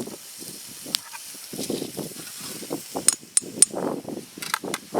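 Sausage sizzling in a titanium pan over campfire coals, with scraping and a few sharp metallic clicks and clinks as the pan and its titanium stakes are adjusted to sit level; three quick clicks come close together past the middle.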